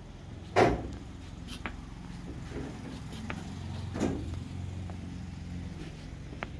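Two loud knocks, one about half a second in and one at about four seconds, with a few fainter ticks over a steady low hum.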